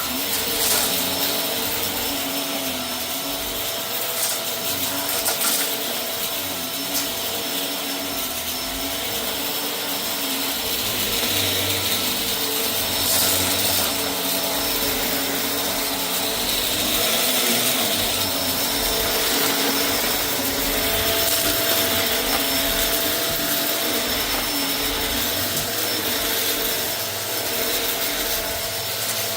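A vacuum cleaner running steadily over a rug, a motor whine under dense suction noise that swells and eases slowly as it is pushed back and forth. A few sharp clicks near the start are scattered debris being sucked up.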